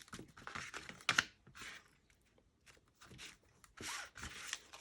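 Small adhesive pentagon gems being peeled off their backing sheet and handled on a card: faint scattered clicks and short tearing scrapes, with a brief pause in the middle.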